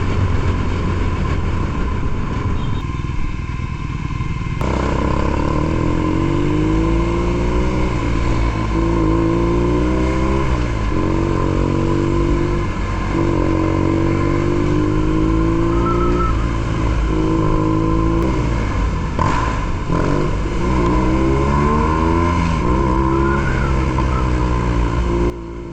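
BMW R nineT Pure's boxer twin through a ZARD aftermarket exhaust, pulling up through the gears: the engine note climbs, drops at each shift and climbs again, many times over. It falls away suddenly near the end.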